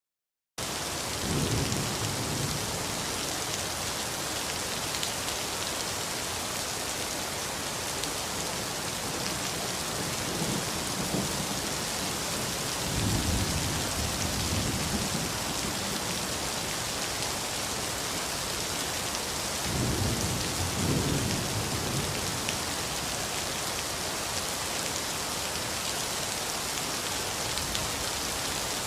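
Steady rain falling on a street, with low rolls of thunder rumbling up and dying away about four times.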